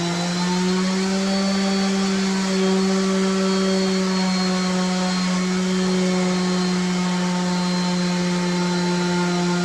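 An electric motor running steadily with a constant low hum and overtones, holding the same pitch and level throughout.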